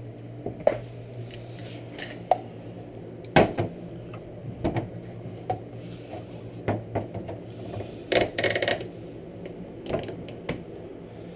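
Hand tools and metal pull-starter parts being handled and clamped: scattered metallic clinks and knocks, a sharp knock about three and a half seconds in and a short rattling clatter around eight seconds in.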